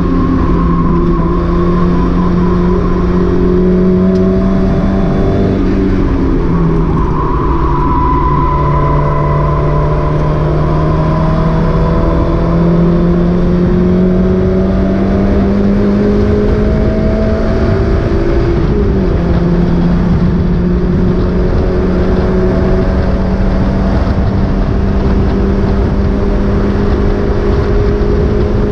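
Mazda MX-5 race car engine running hard at steady high revs. Its pitch climbs slowly and drops sharply twice, about six seconds in and again about two-thirds of the way through, as on a gear change or lift.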